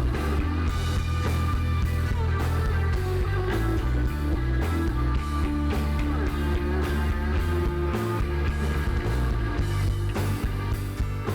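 Live rock band playing an instrumental passage with no singing: electric guitar over bass and drums, with a steady beat.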